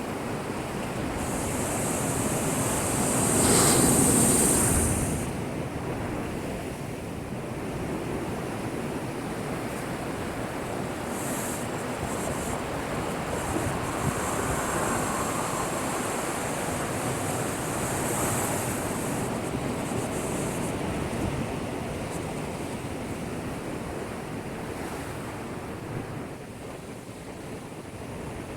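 Heavy typhoon swell breaking against a seawall and washing back, with one big crash and spray about three to five seconds in, then steady surf. The sea is this rough with no wind, driven by an approaching typhoon.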